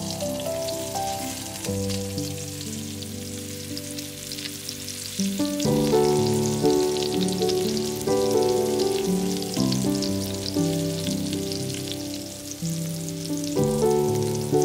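Food frying in oil in a pan, a steady fine crackle, under background instrumental music that gets louder about five seconds in.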